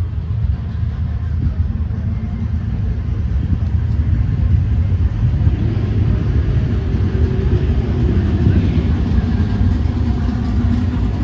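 Car engine running close by: a steady low rumble that grows a little fuller past the middle.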